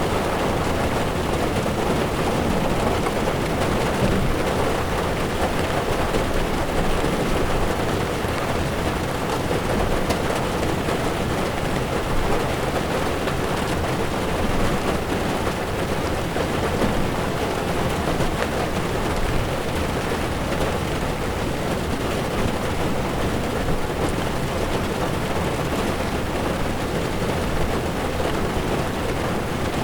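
Heavy rain falling on a car's windshield while its tyres run over a wet road, a steady even wash of noise with a low rumble underneath.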